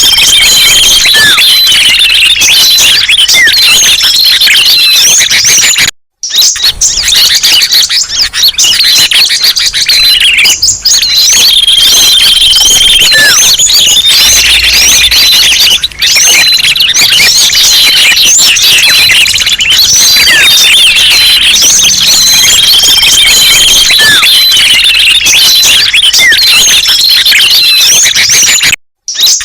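Loud, dense chatter of many small songbirds chirping, trilling and calling over one another: a bird-lure recording meant to draw in small birds. The pattern repeats about every eleven seconds, with two brief dropouts in the sound.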